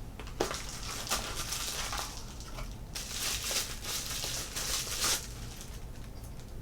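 Packaging rustling and crinkling as it is handled, with a few light clicks and taps; the rustling is densest in the middle.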